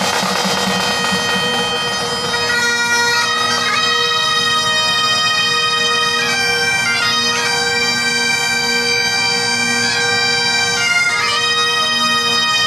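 Bagpipes playing a tune over a steady unbroken drone, the melody moving in stepwise changes of pitch.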